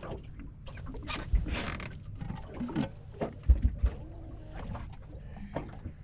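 Handling noise from landing and unhooking a small crappie in a fishing boat: irregular clicks, rustles and knocks, with a heavy thump about a second and a half in and a cluster of heavier thumps about three and a half seconds in.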